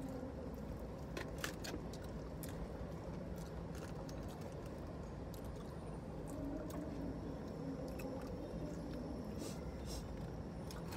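Close-up chewing and biting of fried chicken: faint, irregular crunches and wet mouth sounds, over a steady low hum in the car cabin.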